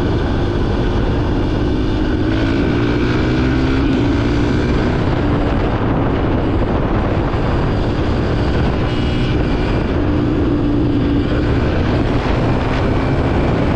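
Yamaha dirt bike engine running under way, its pitch climbing about two seconds in and rising and falling again later with throttle.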